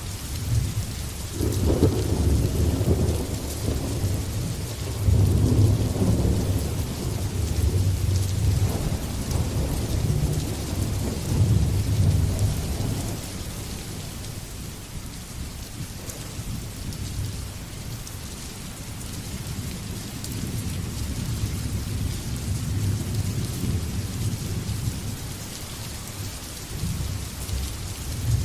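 Thunderstorm: steady rain hiss under long rolls of low thunder, heaviest through the first half, easing in the middle and building again near the end.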